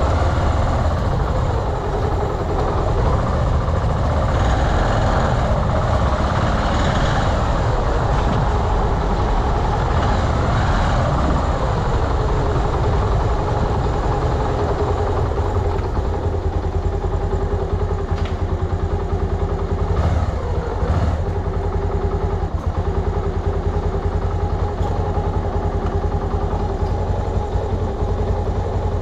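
Engine of a carburettor Honda BeAT scooter running as it is ridden, its pitch rising and falling for the first ten seconds or so, then holding steadier.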